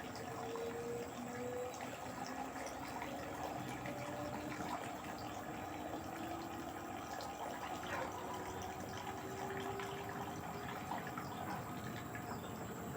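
LG direct-drive washing machine mid-cycle: water sloshing in the turning drum, with a faint motor whine that rises slowly in pitch.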